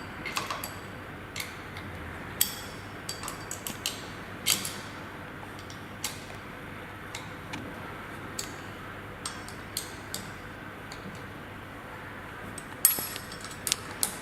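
Sporadic light metallic clicks and taps of hand tools on screws and pump parts as the submersible pump's fixing screws are tightened, irregularly spaced, with a few louder clicks near the end.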